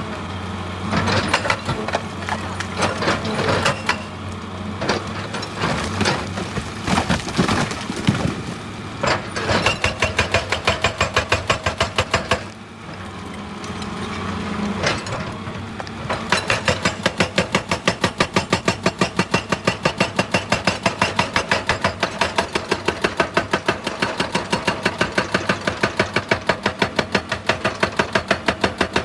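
Excavator working rock, with its diesel engine droning under it. Irregular cracking and crunching of rock come first, and from about halfway on a steady, rapid knocking sets in.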